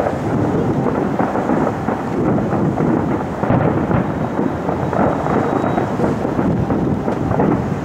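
Fireworks display: a dense barrage of shell bursts and crackling, so many that they overlap into one continuous rolling noise with no gaps.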